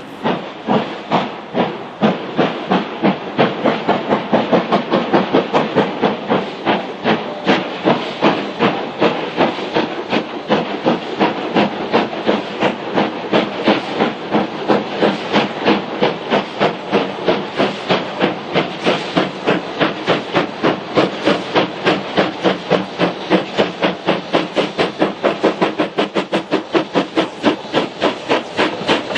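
Two-cylinder LMS Black Five 4-6-0 steam locomotive working under steam, its exhaust beats chuffing steadily at about four a second.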